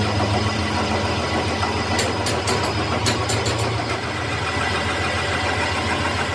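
A workshop machine's motor running steadily with a low hum, with a few sharp metallic clicks about two and three seconds in.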